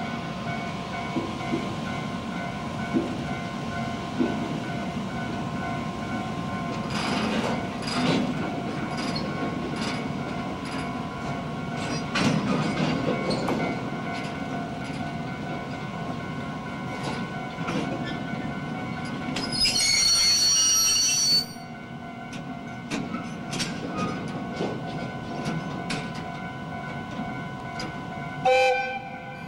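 Electric freight locomotive and tank wagons moving slowly while shunting, with a steady hum and scattered clanks and clicks from wheels and couplers. A little past the middle comes a loud high-pitched shriek of about two seconds that cuts off sharply, and near the end a short, lower tone.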